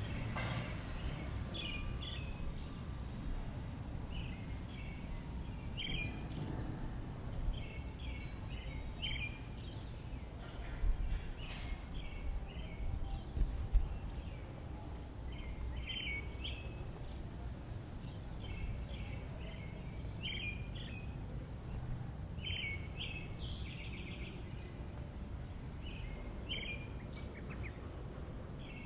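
A bird calling again and again in short chirps, in small groups every second or two, over a steady low background rumble. Two louder thumps come near the middle.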